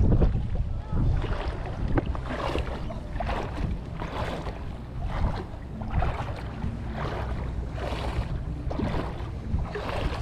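Wind blowing across the microphone with a low rumble, while small waves slap irregularly against the hull of a small boat.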